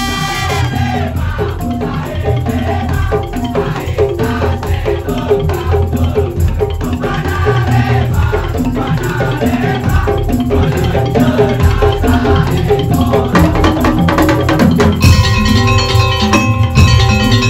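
Madurese daul (tongtong) music: an ensemble of wooden and bamboo percussion playing a busy rhythm over a melody. About fifteen seconds in it gets louder and brighter, with held tones added.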